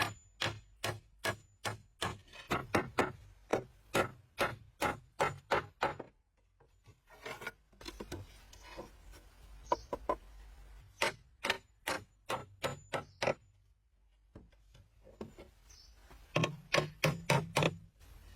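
Wood being struck by hand: quick runs of sharp knocks, about three a second, broken by two pauses.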